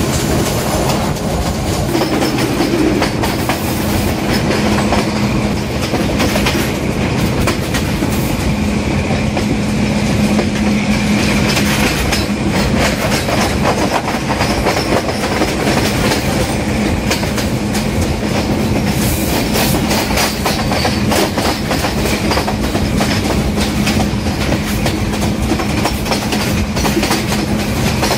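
Passenger train rolling over rail joints, heard from an open carriage window: a steady clickety-clack of wheels under a continuous rumble, with the steady drone of the Class M6 diesel locomotive working up the incline.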